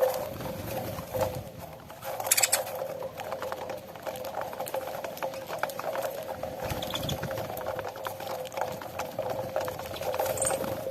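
Flock of saffron finches pecking at cracked corn: rapid, irregular small clicks and taps of beaks on grain, with a short rustling burst about two seconds in and a brief high chirp near the end, over a steady hum.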